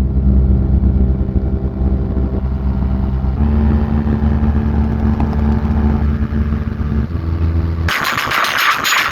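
A large DJ speaker-box sound system playing very loud, distorted deep bass notes that change pitch in steps, about three and a half and seven seconds in. About eight seconds in it switches abruptly to a harsh, rapid rattling burst.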